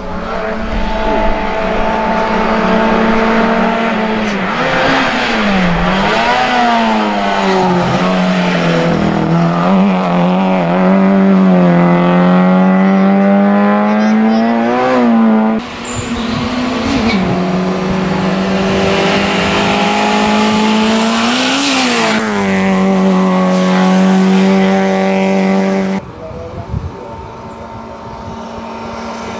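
Peugeot 205 hillclimb car's 1.3-litre four-cylinder engine revving hard under racing load. Its pitch rises and drops sharply with gear changes and throttle blips for the bends. Near the end the sound falls to a quieter, steadier engine note as the car approaches from further off.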